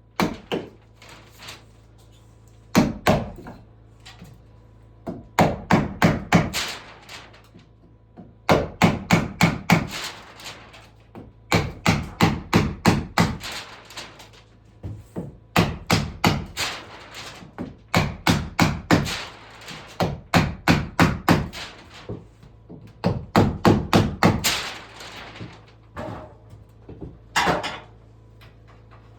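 Hammer driving nails into wood, in bursts of quick blows with short pauses between the bursts.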